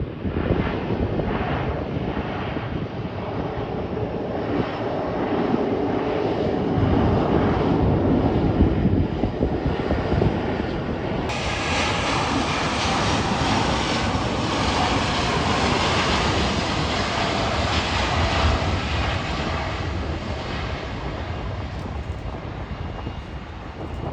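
Jet airliner's engines heard during a pass at the airport: a loud, even noise that builds to its loudest about eight seconds in, holds, then eases off near the end.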